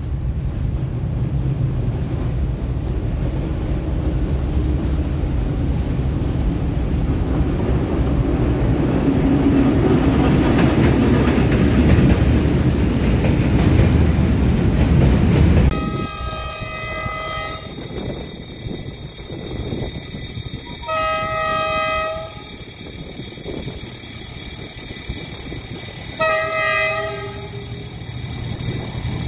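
A long train of freight wagons rolling past close by, a steady rumble that grows louder. After a cut, an approaching diesel locomotive sounds its horn three times, each blast about a second long.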